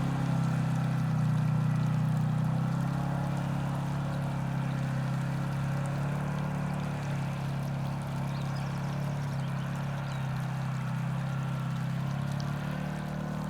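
Vehicle engine running steadily under way, a low even drone with road or wind hiss over it.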